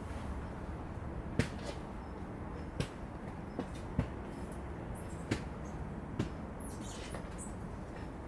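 Five or six sharp knocks at irregular intervals of about one to one and a half seconds, over a steady low outdoor rumble.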